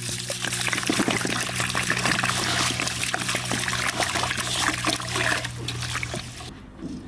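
Liquid being poured in a steady splashing stream, stopping suddenly about six and a half seconds in.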